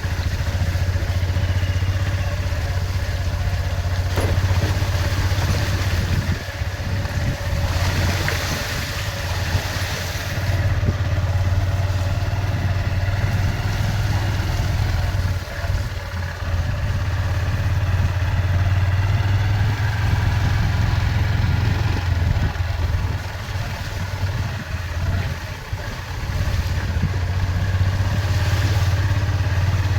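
A motor vehicle's engine running steadily, with a brief hiss rising about eight to ten seconds in.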